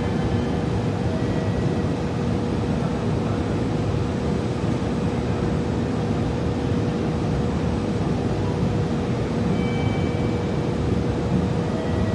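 Steady low rumble with a constant hum from a JR Kyushu 883 series electric train pulling away down the line, heard across an open station platform.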